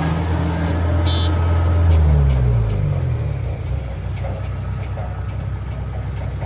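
John Deere tractor's diesel engine running hard. About two seconds in its pitch falls and the engine slows, then it settles into a lower, steady running.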